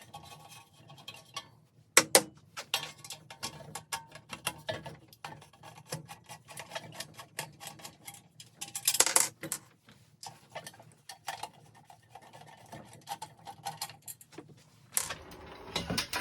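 Metal parts of a ceiling fan being handled and taken apart: scattered small clicks and light knocks, a sharper knock about two seconds in and a longer clatter about nine seconds in.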